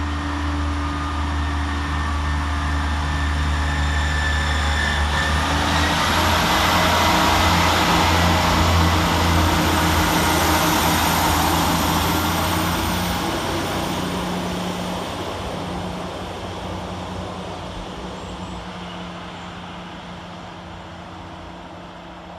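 Scotrail Class 158 diesel multiple unit running through the station, its diesel engine and wheels on the rails growing louder to a peak about eight seconds in, then fading away as it moves off.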